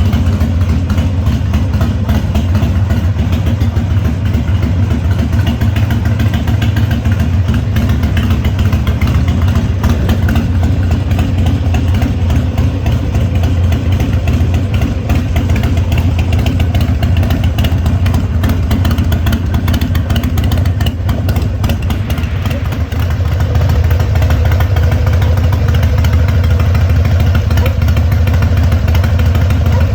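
A 2004 Harley-Davidson Sportster 1200's carbureted Evolution V-twin idling steadily through Motor Stage narrow slash-cut aftermarket mufflers. It gets slightly louder about three-quarters of the way through.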